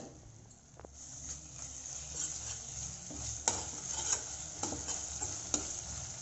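Ginger-garlic paste frying with chopped onions in hot oil in a stainless steel pan: a steady sizzle, louder after about a second, with a metal spoon stirring and scraping against the pan. The paste is being fried to cook off its raw smell.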